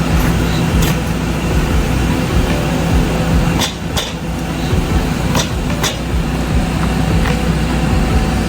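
Tow truck engine running steadily, with several sharp metallic clanks from the towing gear in the middle of the stretch.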